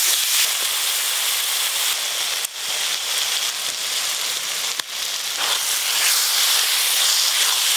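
Spice paste and tomato pieces sizzling as they fry in oil in an aluminium wok, with a steady hiss broken briefly twice.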